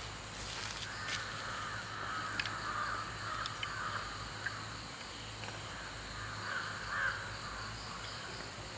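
Crows cawing, a run of rough calls in the first few seconds and another near the end, with a few light clicks.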